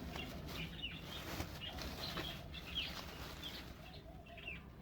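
Small birds chirping: short, high, slightly falling chirps, two or three a second, over faint clicks and rustling.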